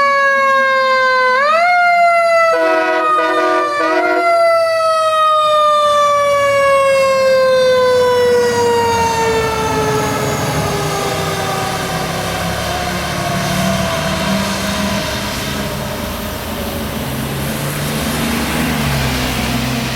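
Fire engine siren rising twice and then slowly winding down in pitch over about twelve seconds. A few short air horn blasts sound about three seconds in. As the siren fades, the truck's engine and road noise take over.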